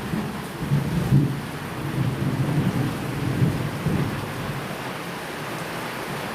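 Steady rain with a low rolling rumble of thunder, strongest about a second in and easing off toward the end.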